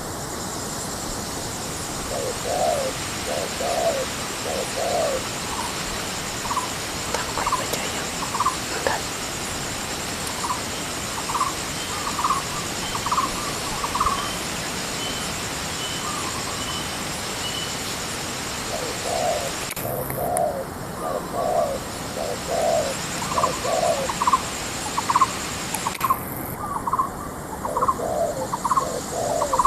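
Spotted doves cooing: repeated short phrases of a few low notes, with a second, higher-pitched series of calls in between and overlapping.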